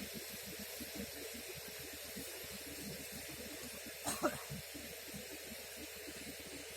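A steady hiss of outdoor background noise with a low rumbling underneath, and a short rising chirp about four seconds in.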